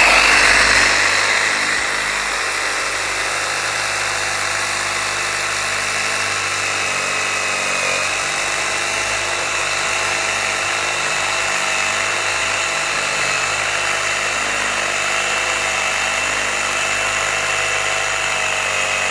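A motor or engine running steadily at a constant speed, with a steady high whine over a broad, even noise.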